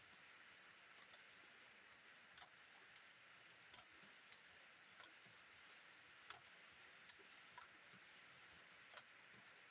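Light rain: a soft, steady hiss with scattered single drops ticking irregularly, about one every second.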